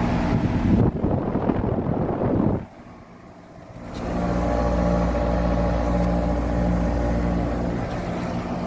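Outdoor air-conditioner condenser running: the fan and the compressor's hum. About two and a half seconds in the sound drops away for about a second, then comes back as a steady low hum.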